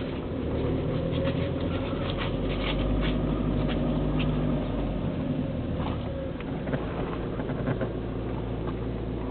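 Car engine running as the car rolls slowly, heard from inside the cabin; its note rises a little in the first few seconds and eases off about halfway through. A scatter of light clicks and crackles rides over it.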